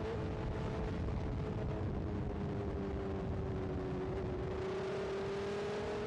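BMW S1000RR inline-four motorcycle engine running at fairly steady revs, its pitch sinking slightly and then climbing again near the end, over road and wind noise.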